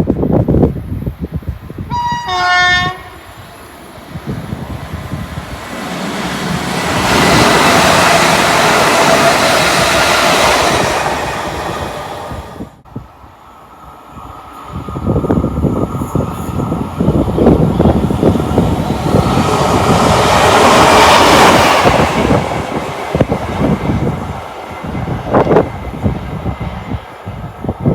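A train horn sounds a two-tone call, a high note then a lower one, then a train passes at speed with a loud rising and falling rush. After a sudden break, a second train passes at speed.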